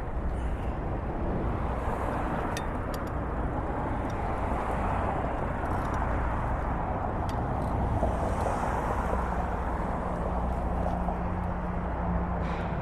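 Wind buffeting the phone's microphone, mixed with road traffic. A vehicle engine's steady hum comes in about nine seconds in.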